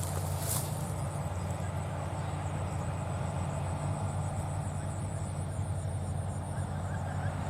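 John Deere 5104 tractor's three-cylinder diesel engine running steadily under load, hauling a loaded trolley.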